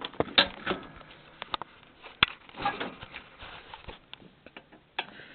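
A series of irregular clicks, taps and knocks, with the loudest a little after two seconds in and another near the end.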